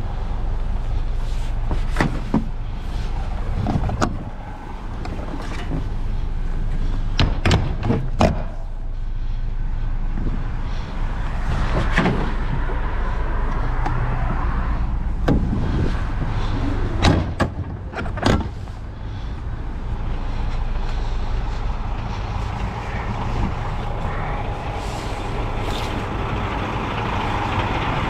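Truck engine running steadily, with a string of sharp knocks and clunks over it in the first two-thirds.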